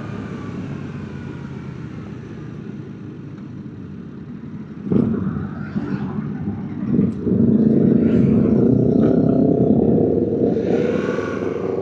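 A vehicle engine running with road noise. It grows louder about seven seconds in, its pitch climbing slightly as it speeds up.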